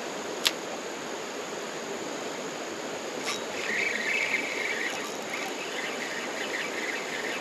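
Steady rush of flowing creek water, with a sharp click about half a second in and an intermittent buzzing whir from about halfway.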